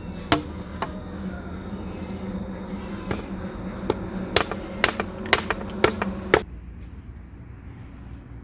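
A run of sharp knocks, like something being struck with a hammer or tool, bunched about every half second between three and six seconds in, over a steady high trill of crickets. Both cut off suddenly about six and a half seconds in.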